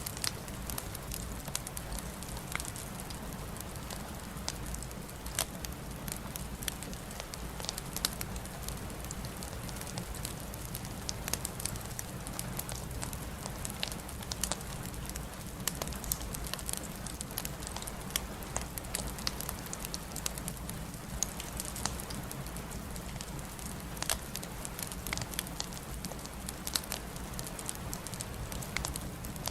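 Crackling log fire: irregular sharp pops and snaps over a steady low rumble and hiss.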